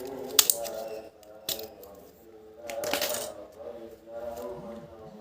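Small hard puzzle pieces clicking and clinking as they are handled and fitted together, with a few sharp clicks, the loudest about half a second in.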